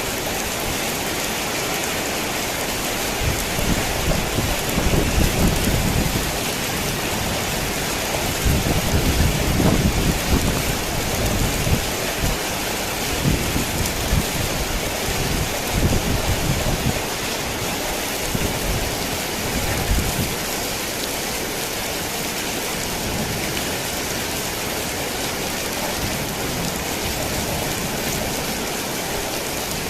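Heavy rain falling on a tin roof as a steady hiss, with a long roll of thunder rumbling low from about three seconds in until past the middle, then fading back to rain alone.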